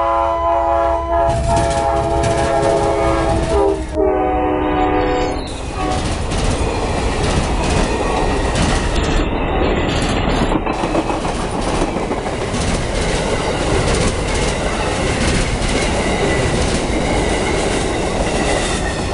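Amtrak passenger train's multi-tone air horn sounding, with a short break about a second in, its pitch dropping as the locomotive passes and the horn stopping about five seconds in. The train then rolls close by at speed, its wheels clattering steadily over the rail joints.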